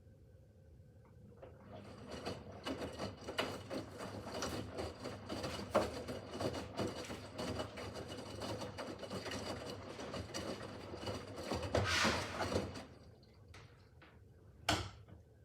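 Miele W5801 WPS front-loading washing machine in its wash phase: the drum turns the laundry with a busy clattering for about eleven seconds, then stops, and a single sharp click follows near the end.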